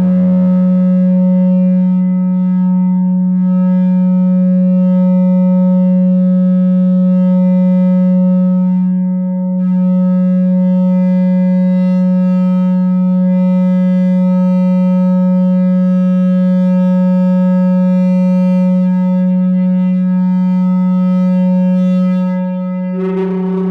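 No-input mixer feedback drone: a two-channel mixer fed back into itself through an effect pedal, holding one steady low tone with a dense stack of overtones. Near the end a brighter, buzzier layer of higher tones comes in.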